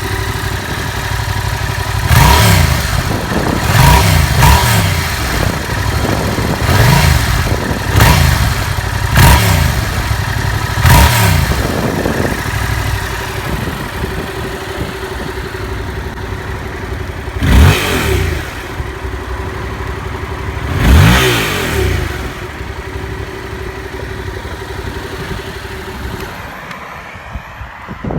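Yamaha MT-07's 689cc parallel-twin engine through its stock exhaust, idling with a string of sharp throttle blips, about seven in quick succession, then two more spaced out. Near the end the engine is switched off and the sound dies away.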